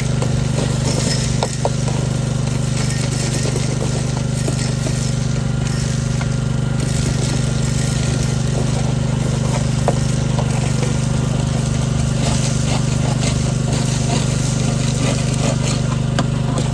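An engine running steadily with a low, even drone, with scattered light knocks and clatter over it.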